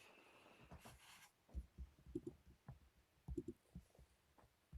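Near silence broken by a soft rustle at the start, then a scatter of faint, short clicks and knocks, several in quick pairs.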